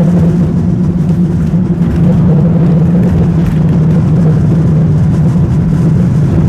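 Vintage tram running along its track, a steady loud rumble with a constant low hum.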